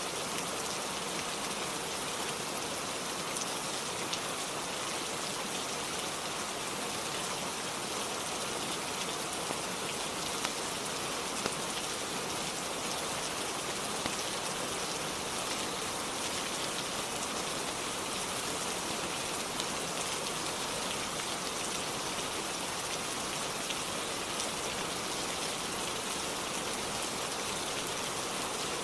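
Steady rain falling and pattering, with a faint sharp tick now and then.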